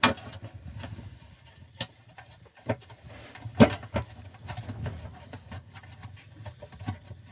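A few sharp, separate knocks and clicks of tools and metal parts being handled during the transmission pan removal, the loudest about three and a half seconds in, over a low steady hum.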